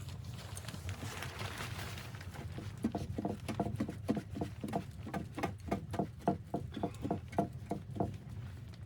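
A quick, even run of soft knocks, about three or four a second, starting about three seconds in and stopping near the end, over a steady low rumble.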